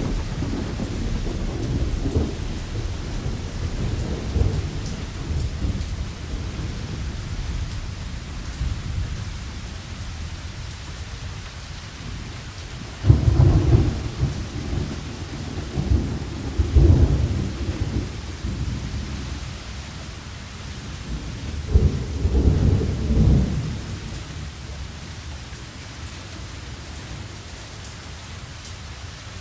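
Thunderstorm: steady rain with rolling thunder. A low rumble fades over the first third, then two sudden, louder cracks of thunder break out about halfway through and again about three quarters through, each rolling on for a couple of seconds.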